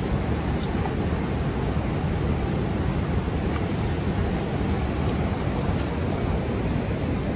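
Steady rushing roar of fast-flowing water from a river or waterfall, even and unbroken.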